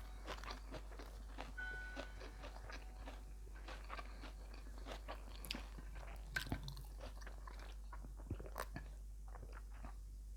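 Close-miked chewing and crunching of a mouthful of food, beef laab with rice, as a string of irregular crisp wet clicks with no speech. A steady low hum runs underneath.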